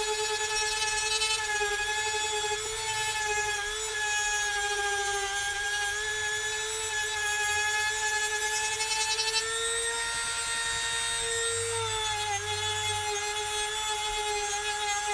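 High-speed WEN rotary tool fitted with a diamond disc, running with a steady high whine while grinding down cured silicone. Its pitch rises slightly about ten seconds in and settles back about two seconds later.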